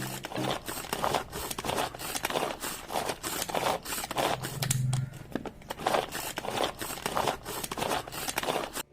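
Hand-pulled plastic vegetable chopper worked with quick repeated pulls of its cord handle, the blades whirring and rattling as they chop onion and tomato pieces in the bowl. The pulling stops suddenly near the end.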